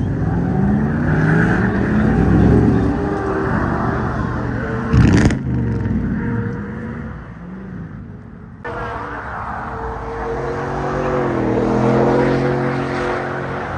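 Pickup truck engine revving up and easing off, with one short loud thump about five seconds in.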